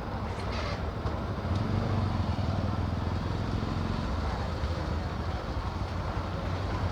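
Motorcycle engine running steadily while riding, with wind and road noise; the engine note gets a little louder about a second and a half in, then settles.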